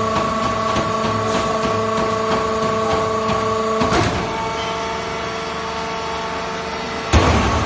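Machinery running with a steady hum and faint regular ticking. Its tone shifts and drops slightly about four seconds in, and a short, loud burst of noise comes near the end.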